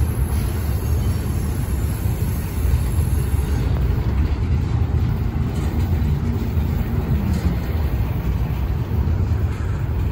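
Double-stack intermodal well cars of a freight train rolling slowly past: a steady low rumble of steel wheels on the rails.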